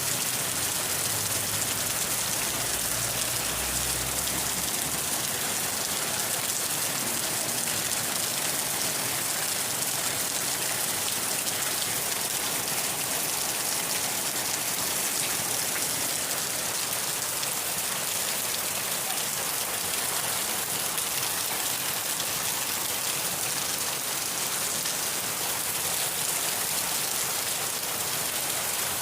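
Steady heavy rain falling, an even hiss with no pauses, with a faint low rumble in the first few seconds.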